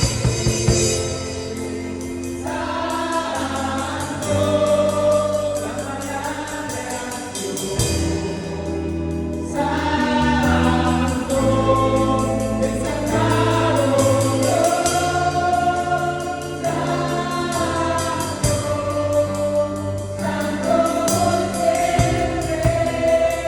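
Christian worship song with group vocals singing held lines over sustained bass notes. Drum kit hits sound at the start and drop out about two seconds in.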